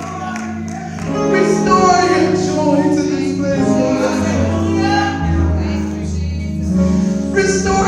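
Church music: held keyboard chords with a voice singing over them.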